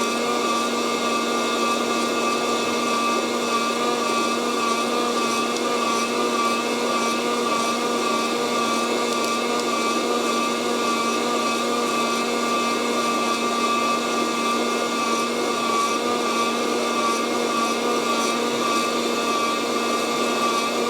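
Fresh Roast SR 800 hot-air coffee roaster running steadily, its fan giving a constant whine over a whooshing hiss of hot air driving the beans, late in a roast after first crack.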